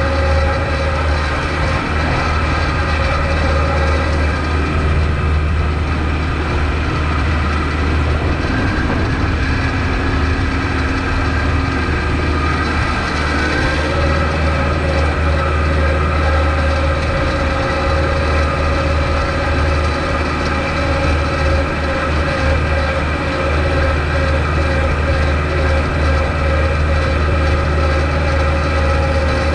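Kubota MX5200 tractor's diesel engine running steadily, with a deep, even drone. A higher steady tone above it fades from about four seconds in and comes back about thirteen seconds in.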